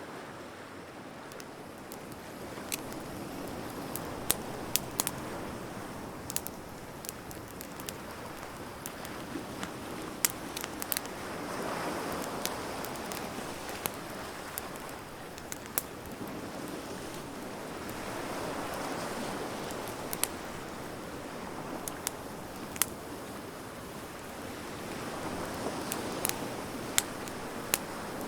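Wood bonfire crackling, with irregular sharp pops and snaps over a steady hiss. Waves wash in and out behind it, swelling about every seven seconds.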